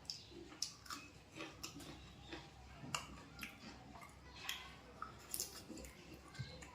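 A person chewing a mouthful of fried egg with wet, irregular mouth smacks and clicks.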